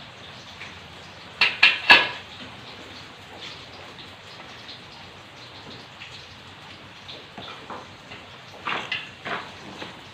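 Sharp metallic clanks of hollow steel tubing being knocked or handled: three in quick succession about a second and a half in, and a few more near the end. Steady rain runs underneath.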